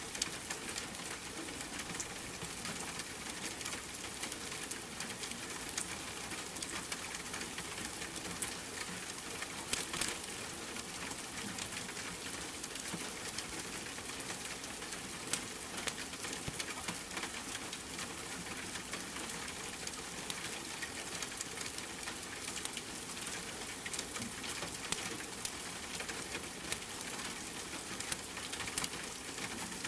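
Steady rain with the irregular crackle and pop of a wood fire burning in a fireplace.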